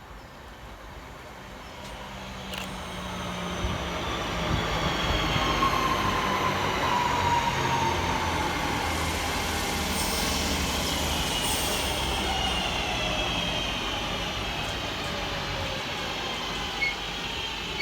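Class 323 electric multiple unit arriving and braking into the platform, its traction motor whine falling steadily in pitch over the rumble of the wheels on the rails. A row of short beeps sounds near the end.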